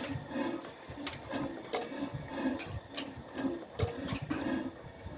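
Old Ruston stationary engine running at slow speed with an even chugging beat, about two a second, with sharp metallic clicks between the beats.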